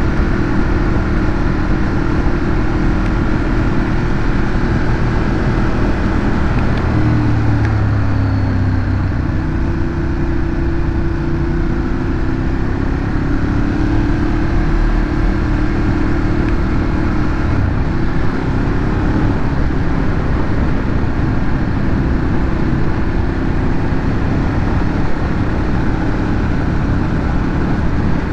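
Ducati Monster 821's L-twin engine through its stock exhaust, running under way; its pitch dips about seven seconds in and climbs again a couple of seconds later as the throttle changes.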